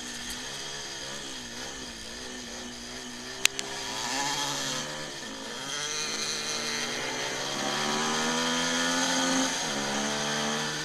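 Kawasaki 300 motorcycle engine racing on ice, heard from the rider's helmet camera, its revs rising and falling as he works through the corners. A single sharp click sounds about three and a half seconds in.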